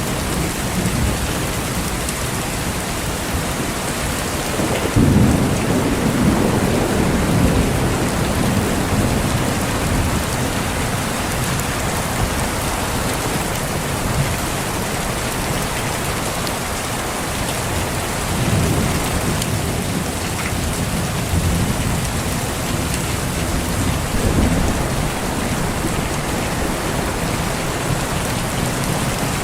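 Steady heavy rain falling, with distant thunder rolling in three low rumbles: the strongest about five seconds in, lasting a few seconds, and weaker ones past the middle and near the end.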